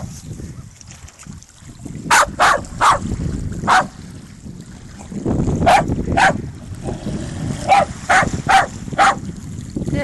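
A dog barking in short, sharp bursts of two or three barks, about ten barks in all, starting about two seconds in; the dog is barking at seagulls.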